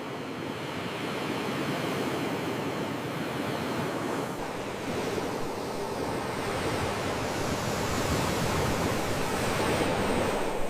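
Ocean waves washing on a shore, a steady surf noise that swells gradually louder over the seconds.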